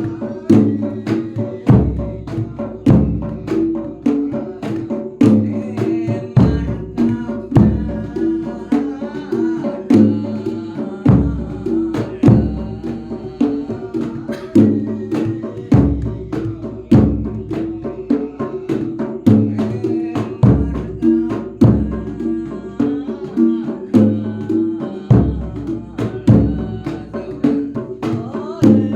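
Javanese percussion music led by a jedor, a large bass drum, beaten with deep hits about once a second among faster drum strokes, over repeating pitched tones.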